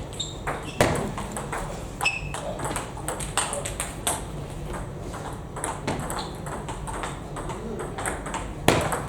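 Table tennis ball clicking back and forth in rallies as it strikes bats and table, with a few sharper smacks, the loudest near the end.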